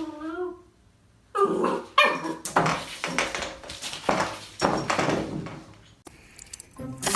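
A dog whining briefly, then barking and yipping in a run of short calls.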